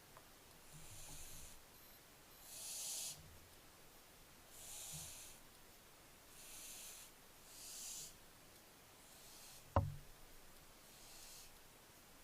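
Barn owl chicks making their hissing, snore-like begging calls, a breathy hiss every second or two. A single sharp knock about ten seconds in.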